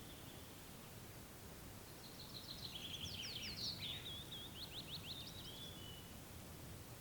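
A songbird sings one fast, varied phrase of quick trills and down-slurred notes, lasting about four seconds and starting about two seconds in, over a steady low hiss of wind and ambient noise.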